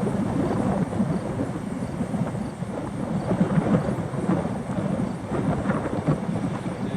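Strong wind buffeting the microphone: a continuous, uneven rumbling that rises and falls with the gusts.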